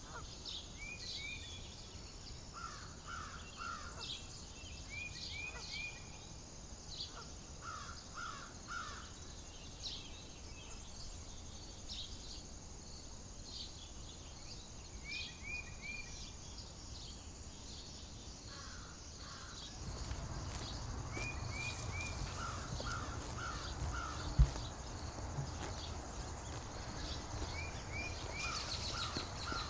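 Birds calling outdoors, again and again in short series of three or four quick notes, with scattered higher chirps. About two-thirds of the way through, a low wind rumble rises, and a single sharp knock stands out shortly after.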